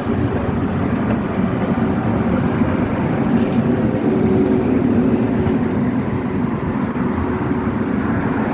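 Tram running with a steady rumble and a few faint steady hum tones.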